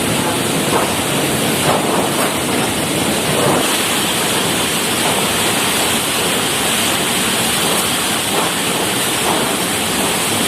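Tropical storm wind and water making a loud, steady rushing noise.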